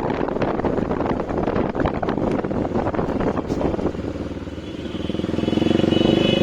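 Bajaj Dominar 400's single-cylinder engine running through its new aftermarket exhaust while riding, with wind buffeting the microphone. About four and a half seconds in, the engine note grows louder and steadier.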